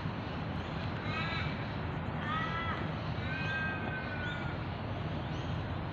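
A bird calling three times, each call a clear pitched cry, the third the longest and gently falling in pitch, over a steady low background rumble.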